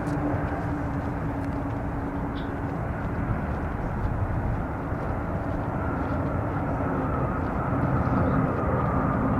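Boeing 777-200ER jet airliner's turbofan engines on landing: a steady jet rumble with a low hum, joined by a higher, slightly falling whine about six seconds in as the sound grows a little louder.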